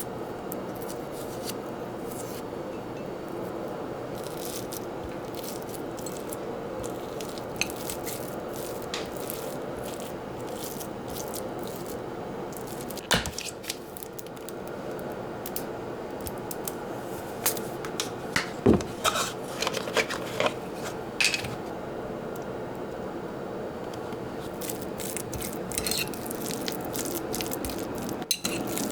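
Scattered light scrapes and clicks of food or kitchenware being handled over a steady low hum, busier about two-thirds of the way through.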